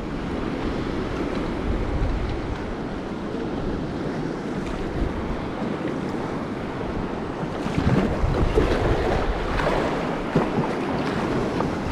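Choppy sea swell washing and breaking against rocks, with wind buffeting the microphone; a few louder splashing surges come in the second half.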